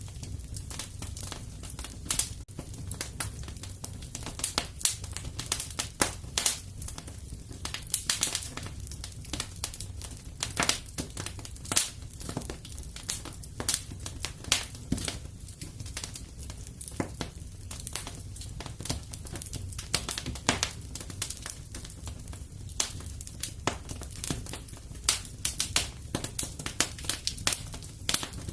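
Fireplace fire crackling: dense, irregular sharp pops and snaps, several a second, over a low steady rumble.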